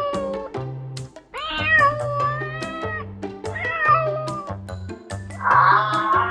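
A cat meowing: three drawn-out, wavering meows, the second the longest at about a second and a half, over background music with a steady beat. Near the end a denser rattling sound comes in with the music.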